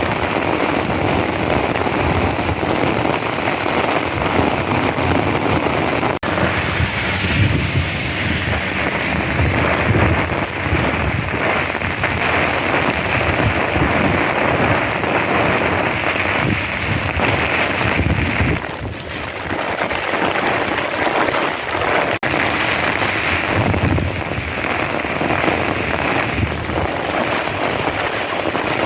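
Monsoon downpour, heavy rain falling in sheets: a loud, dense hiss, with low rumbling swells now and then.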